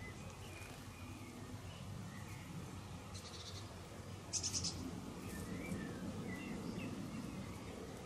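Small garden birds calling: short, scattered chirps, with a brief, loud, high-pitched trill a little past four seconds in, over a steady low background rumble.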